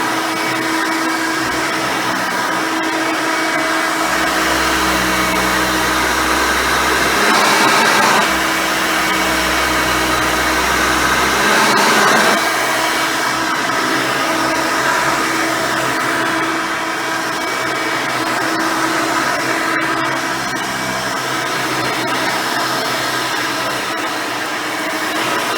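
Hoover Elite 600 upright vacuum cleaner with a single-row brush roll running steadily, a constant motor whine over the rush of air, swelling briefly twice, about a third and halfway in.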